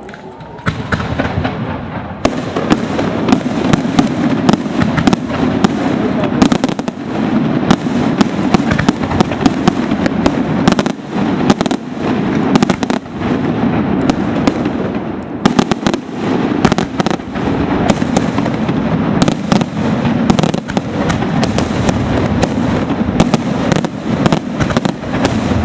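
Aerial firework shells bursting in a dense, continuous barrage: many sharp bangs close together over a steady rumble, loud throughout after starting up about a second in.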